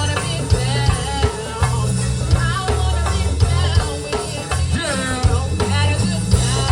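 Live gospel band playing with a singer, drum kit, bass and guitar, the bass line loud under steady drum hits and sliding vocal lines.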